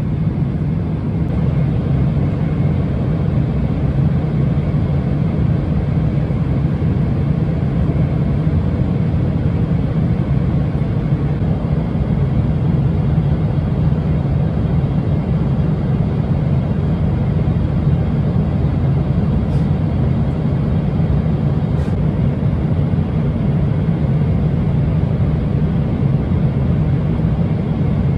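Steady low rumble inside the passenger cabin of a Boeing 777-300ER airliner, with two faint clicks about twenty seconds in.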